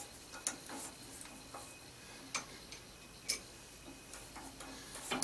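Hand tap being turned into a blind hole with a tap handle: sharp, irregular clicks and ticks, roughly a second apart, as the tap cuts and the handle is worked, over a faint low hum.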